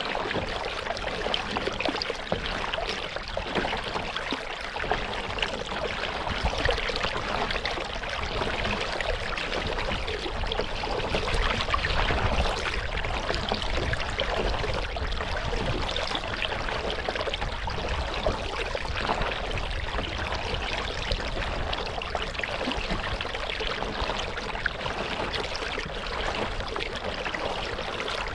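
Water trickling and splashing around a kayak as it is paddled on a lake, a steady wash of small drips and splashes.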